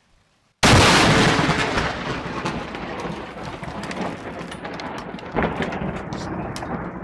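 Close lightning strike: a sudden, very loud thunderclap about half a second in, rolling on as rumbling thunder that slowly fades, with a few sharper cracks in the rumble near the end.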